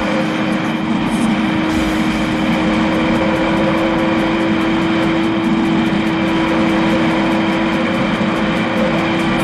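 Motorcycle engine running at a steady cruising speed on a highway, one constant drone under a wide rush of wind and road noise.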